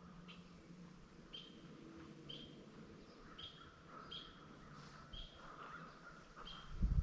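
A bird calling in the woods, repeating a short high note that drops slightly in pitch, about once a second. A loud low thud comes right at the end.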